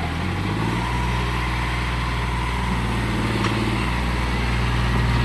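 Heavy diesel engine running steadily, its pitch stepping up slightly about half a second in and growing a little louder near the end.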